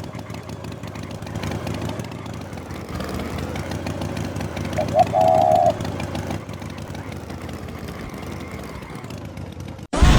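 A steady engine-like rumble, like a motor idling, with one short wavering call about five seconds in. Music starts abruptly at the very end.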